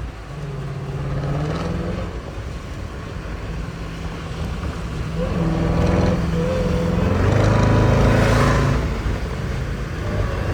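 Jeep Grand Cherokee Trackhawk's supercharged 6.2-litre V8 running while driving and accelerating, pitch shifting with the revs; it gets louder about six seconds in and is loudest near eight seconds.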